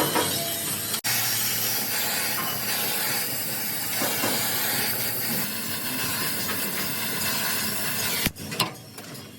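Compressed-air tool hissing steadily for about seven seconds, starting suddenly about a second in and cutting off abruptly near the end.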